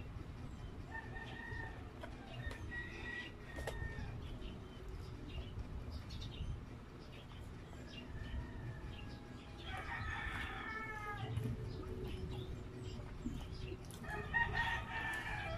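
Close-miked chewing and eating of a pizza slice, with several pitched animal calls in the background; the loudest call comes near the end.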